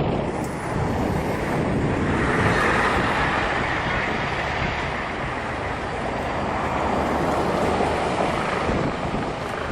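Steady rushing noise of wind on the microphone mixed with aircraft engine noise.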